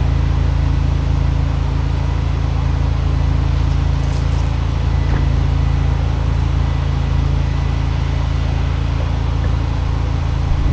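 Pressure washer's gas engine and pump running steadily at constant speed.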